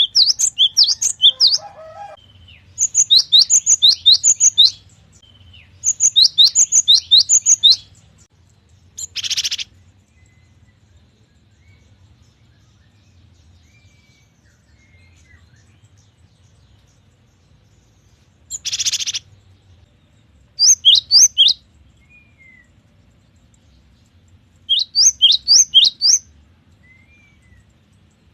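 Cinereous tit (gelatik batu) singing in loud phrases of quickly repeated, high whistled notes with pauses between them. Twice the song is broken by a short harsh, rasping call.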